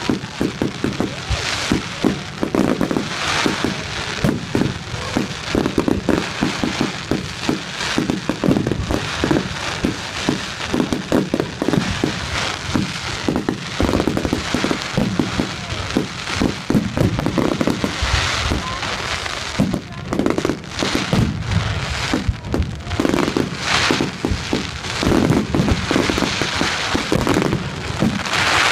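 Fireworks display: a dense, near-continuous run of bangs and crackling bursts.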